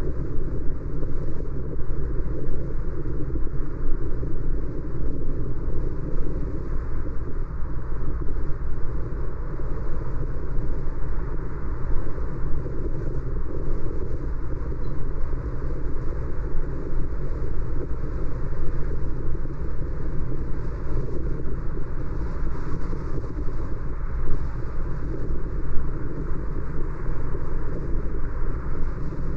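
Steady road and engine noise of a car driving, heaviest in the low end, with no distinct events.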